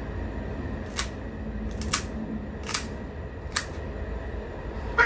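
A handful of sharp, crisp clicks, roughly one a second, two of them close together, over a low steady hum.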